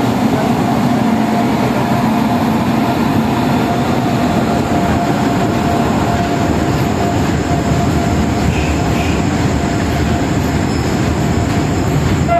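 A BOXN freight train hauled by a WAG9 electric locomotive running past: a steady rumble and rattle of wheels on the rails, with a thin steady whine above it.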